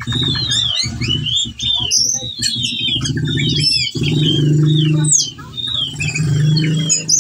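Whistling thrush (ciung batu) in full song: a rapid, unbroken stream of varied chirps and short gliding whistles, mixed with mimicked notes. A steady low hum runs underneath, louder in the second half.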